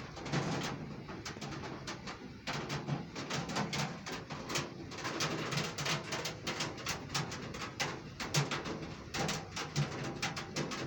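Heavy rain falling, with many sharp drops tapping close by, and a pigeon cooing low and repeatedly through it.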